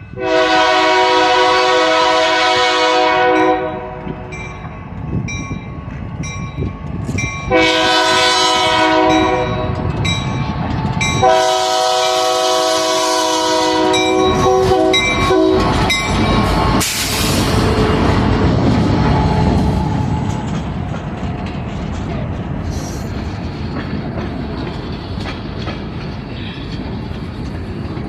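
Wisconsin Southern locomotive sounding its multi-chime horn in three blasts, the second one shorter, then the train rolling past with a steady rumble and wheels clacking over the rail joints.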